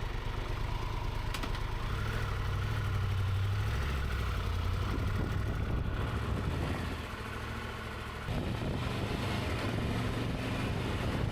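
Triumph Tiger 1200 GT Pro's three-cylinder engine running, its note getting louder about two seconds in, easing off around the seventh second and picking up again a second or so later.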